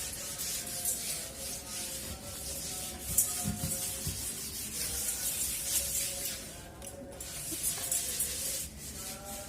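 Wet cloth scrubbing the outside of a fridge with dishwashing liquid, repeated rubbing strokes.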